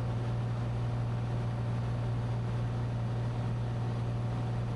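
Cessna 182T's six-cylinder Lycoming engine and propeller droning steadily in cruise flight, heard from inside the cabin as a constant low hum.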